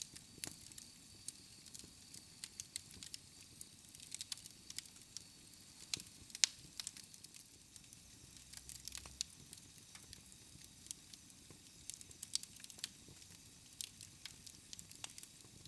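Wood campfire crackling, with sharp, irregular pops and snaps.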